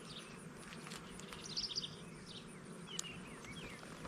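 Honeybees buzzing in a steady low hum around the opened hive, while a bird calls over and over in short, curving chirps about once a second. A few light clicks and knocks come from the hive's wooden inner cover being set back on, one sharper click about three seconds in.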